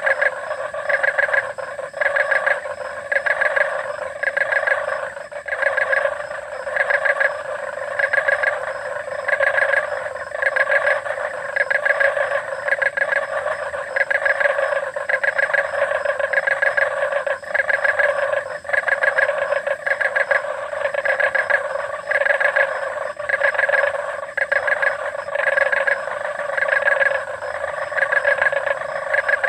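A chorus of many frogs croaking together, dense and steady, with louder calls pulsing about once a second.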